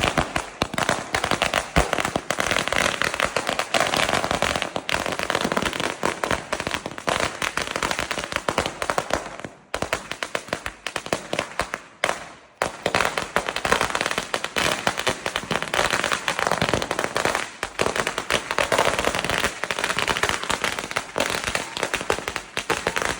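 Nagin 5000 Diwali firecracker going off in a rapid, continuous rattle of bangs, with two short lulls about ten and twelve seconds in.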